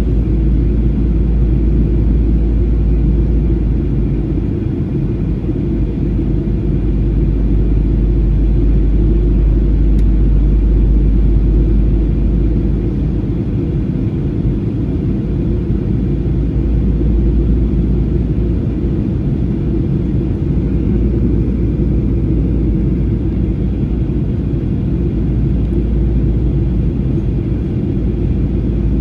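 Jet airliner cabin noise in flight: the steady, loud low rumble of engines and airflow heard from inside the passenger cabin.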